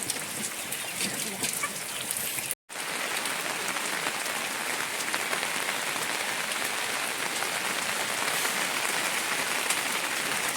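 Heavy rain falling steadily, an even hiss with a very short break in the sound about two and a half seconds in.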